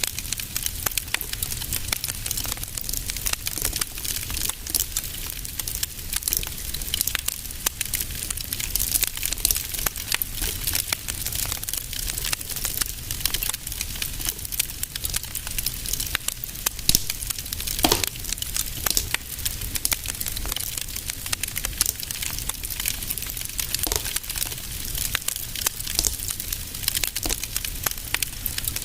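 Wood fire in a fireplace crackling steadily, with dense small irregular pops and one louder pop about two-thirds of the way through, over a low steady rumble.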